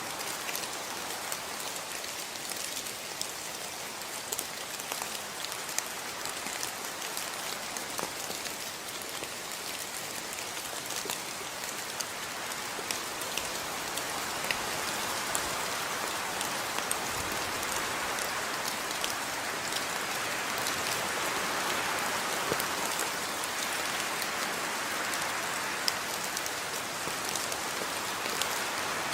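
Steady rainfall, with many separate drops heard as fine ticks on a surface. It grows a little louder about halfway through.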